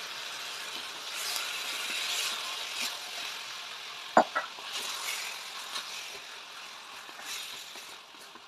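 Marinated chicken sizzling in a stainless steel pot while a wooden spatula stirs it, with repeated scraping strokes. One sharp knock a little past halfway is the loudest sound.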